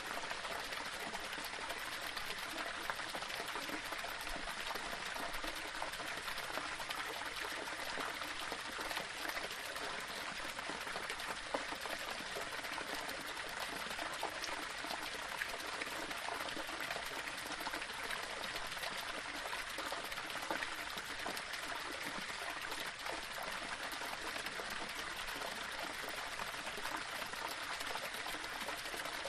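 Small waterfall splashing and flowing over rocks, a steady rush of running water with small splashes throughout.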